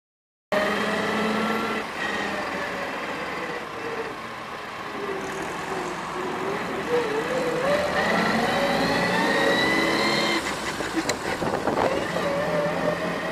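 Vintage Austin car engine and drivetrain heard on board while driving. The pitch climbs steadily as the car accelerates, then drops sharply about ten seconds in, followed by a few knocks.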